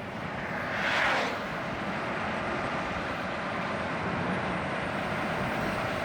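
Steady road and wind noise of a car being driven, with a brief louder whoosh about a second in.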